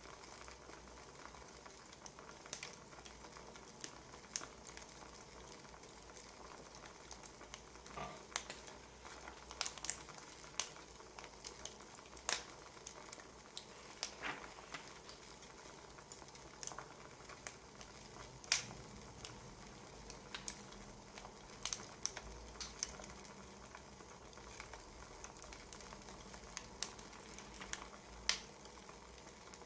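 Wood fire crackling: a steady low hiss with irregular sharp pops and snaps, a few of them louder.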